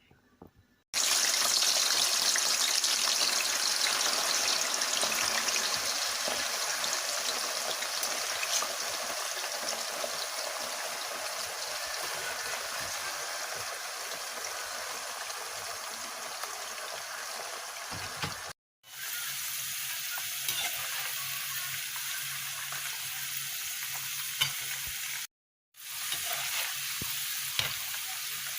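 Food frying in hot oil, a dense sizzle that starts suddenly about a second in, loudest at first and slowly settling, with occasional light clicks. It is cut off briefly twice.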